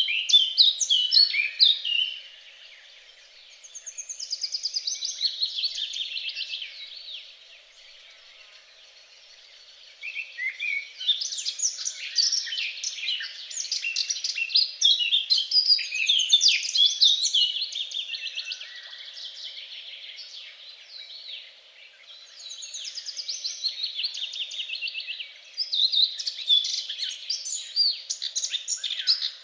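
Songbirds singing in rapid, high chirping and trilled phrases that overlap, broken by a few brief quieter lulls.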